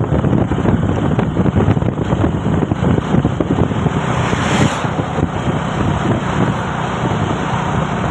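Truck's diesel engine running while driving, a steady rough rumble with wind buffeting the microphone, and a short hiss about halfway through.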